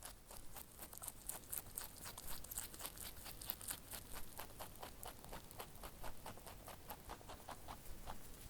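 Soft eating sounds: many small crisp crunching clicks, several a second, as bits of dry food are chewed.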